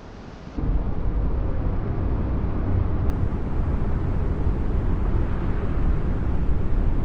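A steady, low rumbling noise that starts suddenly about half a second in.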